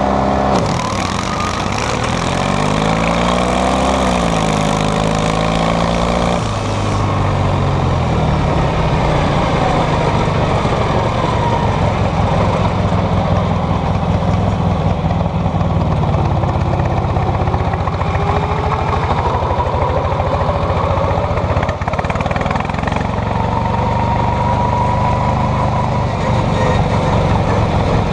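Tractor engines racing at full throttle. Their pitch rises and falls over the first few seconds, then holds fairly steady with slow drifts up and down.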